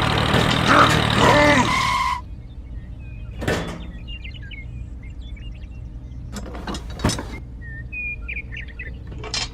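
A loud, noisy sound with pitched tones that cuts off about two seconds in. It leaves a low steady hum, with birds chirping and a few sharp knocks, near 3.5 s, 7 s and at the end.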